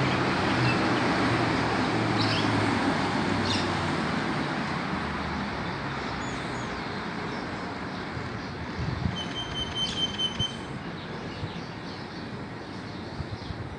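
Road traffic from a passing vehicle, its engine hum fading away over the first half. A few short bird chirps come through, and one brief high bird call sounds about nine seconds in.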